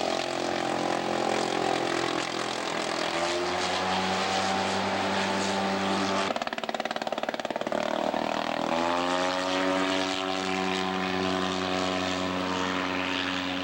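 Rotary engine of a replica WWI Nieuport biplane running in flight. About six seconds in, the ignition is cut with the magneto selector and the engine stutters for a couple of seconds. It then picks up again with a rising pitch.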